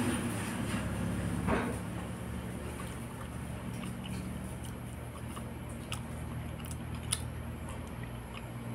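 Quiet chewing and mouth sounds of a person eating tilapia cooked in coconut milk with her fingers, with a few sharp clicks, the clearest about seven seconds in, over a steady low hum.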